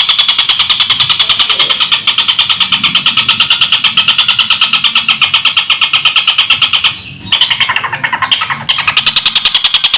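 A tengkek buto kingfisher giving its rapid, cackling rattle, an even run of about a dozen harsh notes a second. The rattle breaks off briefly about seven seconds in, a short different call follows, and then the rattle starts again.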